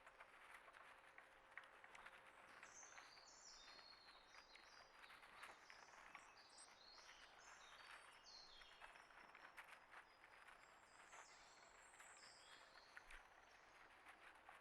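Faint calls of small songbirds: a busy run of short, high, falling notes that begins about two seconds in and dies away near the end, over a light hiss with scattered faint clicks.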